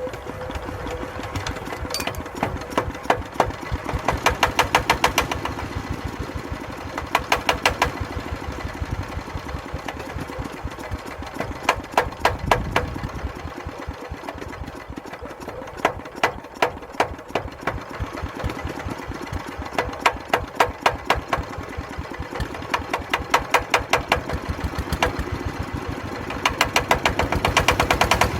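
Old Daedong power tiller's single-cylinder diesel engine running with a rapid, steady chugging that swells into louder bursts of knocking every three to four seconds.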